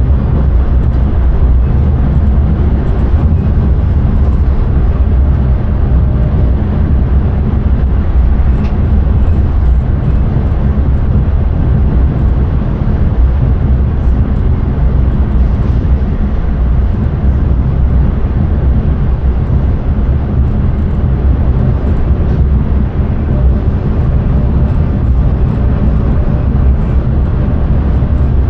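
Steady, loud low rumble of an intercity train running along the track, heard from inside the driver's cab, with a few faint clicks.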